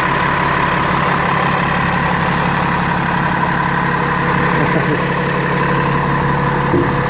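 Cummins ISL inline-six diesel engine idling steadily.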